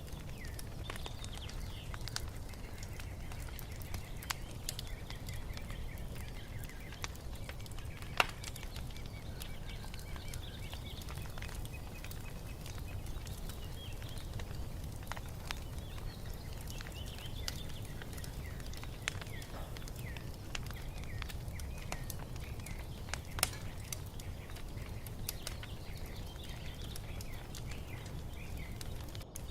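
Wood fire crackling, with scattered pops over a low steady rumble and two louder pops, one about a quarter of the way in and one toward the end. Small birds chirp faintly throughout.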